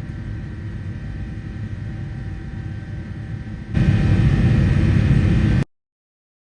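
Jet airliner engine noise heard inside the cabin: a steady rumble with a faint hum, stepping up louder about four seconds in, then cutting off suddenly.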